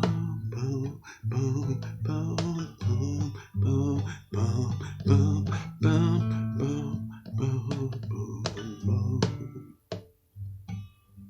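Guitar in DADGAD tuning playing an instrumental passage of rhythmic chords over a steady low bass note. It thins to a few sparse notes about ten seconds in.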